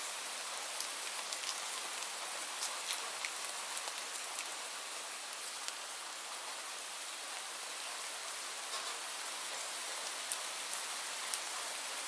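Steady rain: an even hiss with scattered, sharper ticks of single drops hitting a surface close by.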